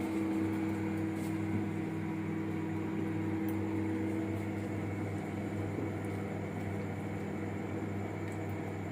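Microwave oven running in convection mode after preheating, giving a steady hum of its fan and motor; one of its hum tones fades out about two thirds of the way through.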